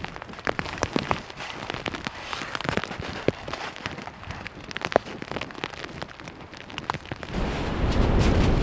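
Wood fire crackling with irregular sharp pops. A low rumble of wind on the microphone comes in near the end.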